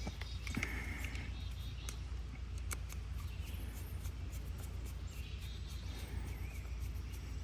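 Faint bird chirps over a low steady hum, with a few small scattered clicks and taps.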